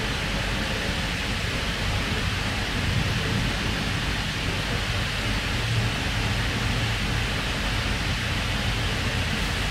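Steady rumble and hiss of a K-set double-deck electric train heard from inside the carriage: wheels on rail and running gear as it runs alongside a station platform.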